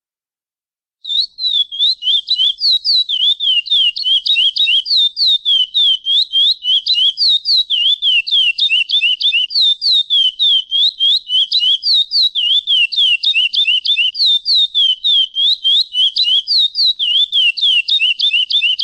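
Curió (chestnut-bellied seed finch) giving a fast, steady run of short downslurred whistled notes, about five a second, alternating higher and lower, starting about a second in and cutting off sharply at the end.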